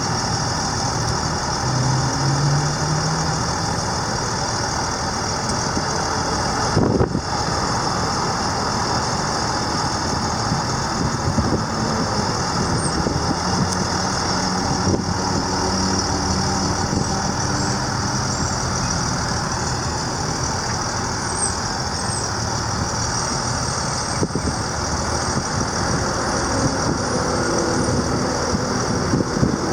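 DT466 turbo diesel engine of an International 4300 bucket truck running steadily, with a single short knock about seven seconds in.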